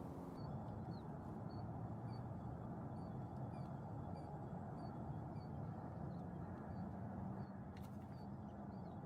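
A bird calling with short, high chirps, about two a second, over a steady low background rumble.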